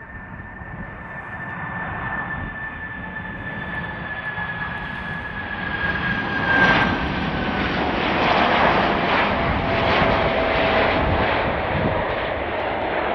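Large jet airliner on landing approach passing close by: the engines' roar builds steadily, with a high fan whine that glides down in pitch as the plane goes past, and the roar is loudest in the second half.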